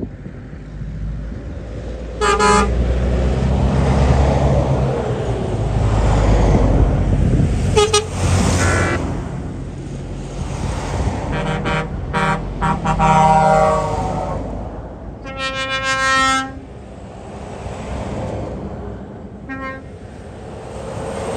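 Trucks passing in convoy, sounding their horns in several separate blasts, the longest lasting about a second near the middle. Under the horns, a heavy engine rumble swells and then fades.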